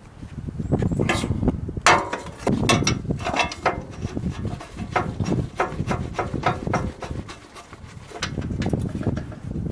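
Irregular metal clinks, knocks and rubbing as a gear case is fitted onto a Takakita manure spreader's drive during reassembly.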